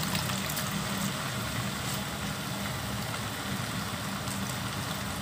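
Rice vermicelli and greens sizzling in a hot wok over a gas burner, as a steady even hiss under a constant low hum.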